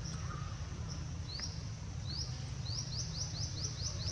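A bird giving short rising chirps, first singly and then in a quick run of about four a second near the end, over a steady low rumble.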